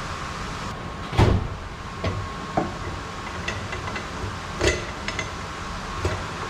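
A few sharp knocks and clanks over a steady fan-like hum. The loudest comes about a second in, and weaker ones follow at irregular intervals.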